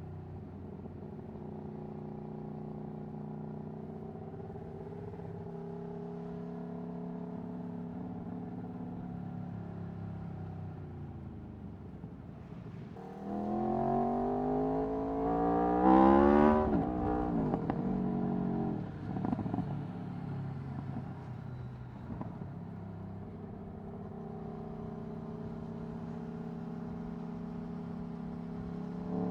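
Aprilia Tuono V4 1100's 65-degree V4 engine through an Akrapovic Racing exhaust, running steadily at part throttle. About halfway through the revs climb sharply to a loud peak, then drop away unevenly before it settles back to a steady run.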